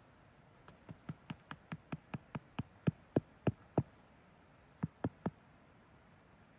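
A quick run of sharp knocks, about fourteen at roughly four a second and growing louder, then a short pause and three more.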